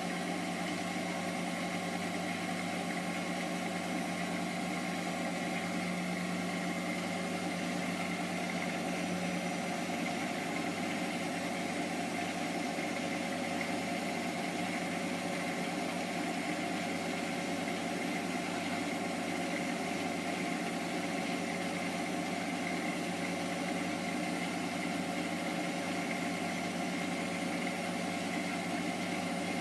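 Hotpoint HE8L493 8 kg washing machine running steadily partway through its Fastwash Eco cycle, giving an even motor hum with a high whine over it.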